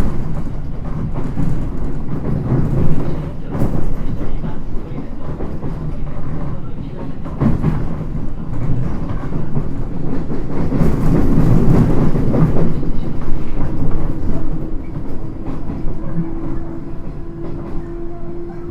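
Running sound of a JR East 719 series electric multiple unit heard from inside the car: a steady rumble of wheels on rail with uneven knocks and clatter over rough track. A steady hum comes in during the second half.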